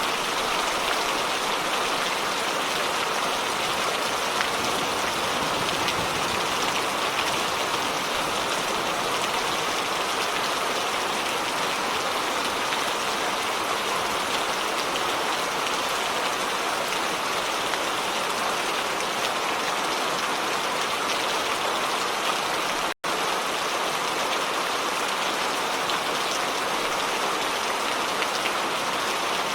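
Steady rain falling, an even, unbroken hiss of drops on surfaces, with no thunder. It drops out for a split second about three quarters of the way through.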